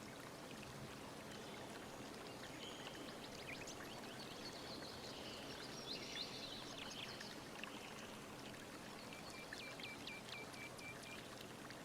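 Faint steady rushing background noise with birds chirping over it, ending in a quick run of about eight short, evenly spaced notes on one pitch.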